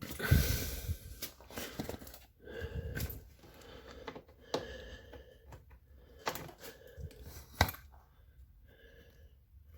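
Scattered clicks, taps and rustling of hands and a screw working against a washing machine's sheet-metal parts while fitting it in place, with a few sharper knocks, the loudest near the end.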